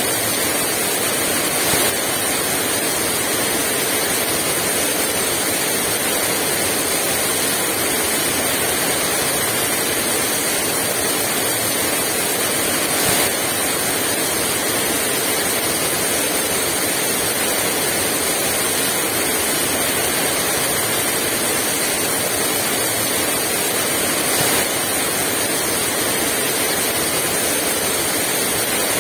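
Heavy rain falling steadily with no wind, an even hiss throughout, with three brief slightly louder spots.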